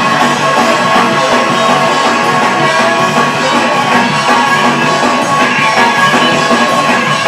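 Loud gospel praise-break music: a full band with drums and electric guitar keeps a fast, steady groove.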